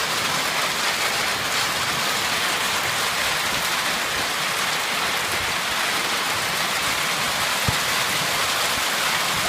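Hail and heavy rain pelting down in a dense, steady hiss, with a single sharper knock about three quarters of the way through.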